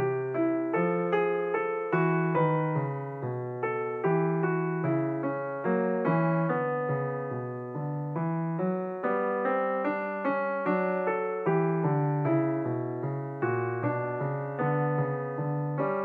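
Background solo piano music: a gentle, even run of struck notes over a repeating bass line.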